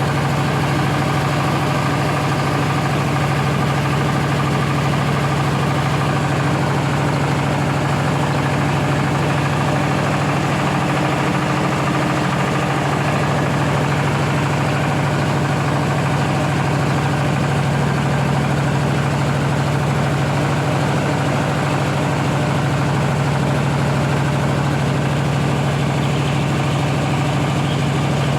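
Rice milling machine running steadily: a loud, constant mechanical drone with a strong low hum.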